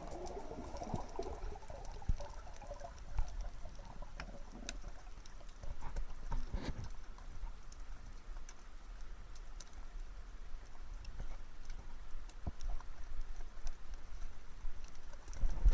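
Underwater ambience picked up by a camera below the surface: scattered small clicks and crackles over a low rumble of water, with a few louder knocks.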